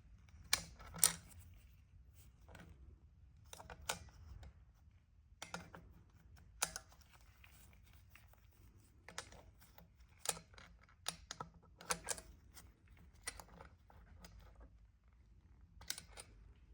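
Irregular light clicks and clinks of small metal parts and hand tools being handled during engine assembly, some in quick pairs.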